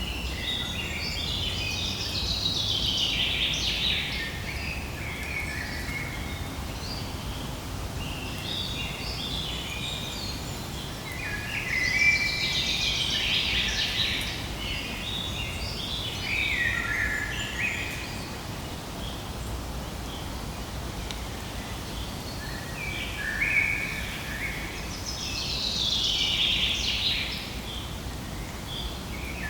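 A flock of birds chattering and calling, rising into three louder spells of dense, overlapping calls, over a steady low background noise.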